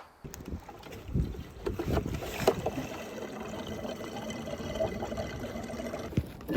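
Stihl MS 500i two-stroke chainsaw being started, with a few knocks of the pull-start, then its engine running steadily.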